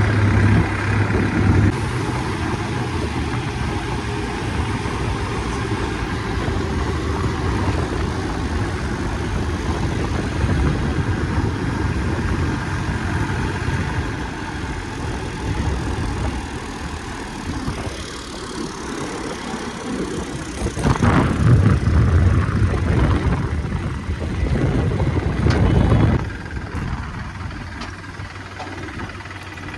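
Tractor diesel engine running steadily, getting louder for about five seconds two-thirds of the way through, then dropping back.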